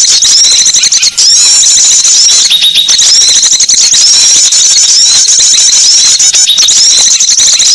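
A dense chorus of small songbirds chirping and twittering without a break, many rapid high-pitched notes overlapping. It is a bird-lure (pikat) call recording, played to draw small wild birds in.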